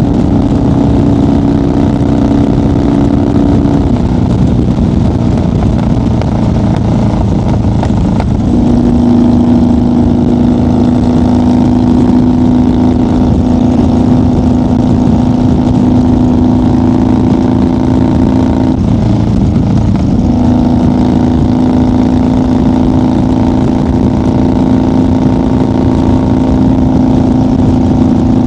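1990 Harley-Davidson FXR's 1340 Evolution V-twin running at highway cruising speed. The engine note drops about four seconds in and comes back up around eight seconds, then dips briefly near twenty seconds before settling steady again, as the throttle is eased off and rolled back on.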